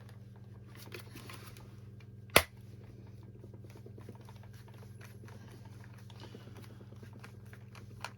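Handling noise from a screwdriver and a small plastic handheld vacuum: one sharp click or knock a little over two seconds in, with a few fainter clicks, over a steady low hum.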